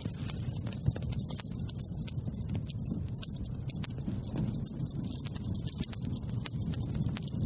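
Campfire crackling: frequent short pops and snaps of burning wood over a steady low rumble.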